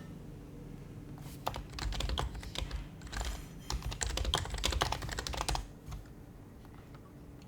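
Typing on an HHKB Professional HYBRID Type-S keyboard's quiet Topre switches, a quick run of key presses for about four seconds that begins over a second in and stops near the six-second mark.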